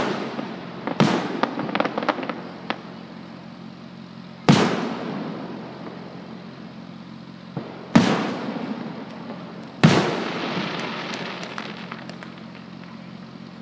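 Aerial fireworks shells bursting, a loud boom every few seconds, each echoing away. Sharp crackling follows the first burst and the one near ten seconds.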